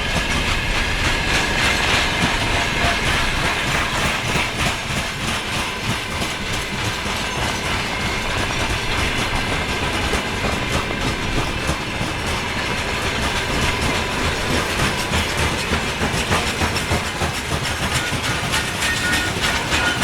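Train running past on the rails: a steady rumble of wagons with rapid clacking of wheels over rail joints that continues without a break.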